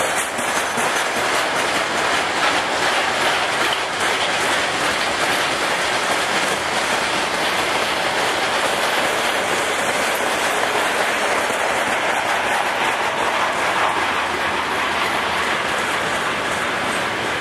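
Freight wagons (covered hoppers, container flatcars and open gondolas) rolling past, a steady loud noise of steel wheels running on the rails.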